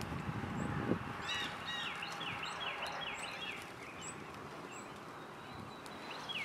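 Small birds calling: a quick run of short, falling chirps repeating two or three times a second over a steady background hiss, with some rustling and a click in the first second.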